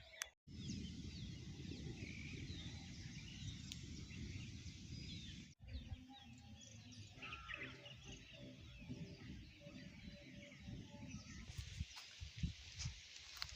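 Many small birds chirping and calling over gusty wind buffeting the microphone, with a steady low hum for a few seconds a little past the middle.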